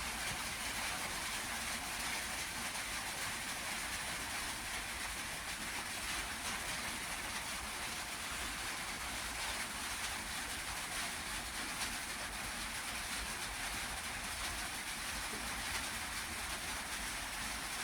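Rain pouring steadily on an iron-sheet roof, an even hiss with no breaks.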